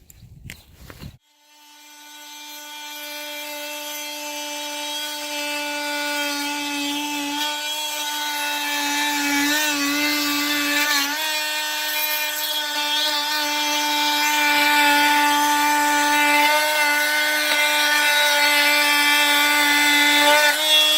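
Power tool motor running steadily as it cuts through a hot tub's plumbing line, its pitch wavering briefly under load midway and dropping as it winds down at the end.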